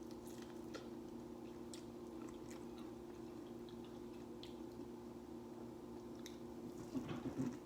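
A person chewing and biting food, with scattered small wet mouth clicks and a cluster of louder chews near the end, over a steady low hum.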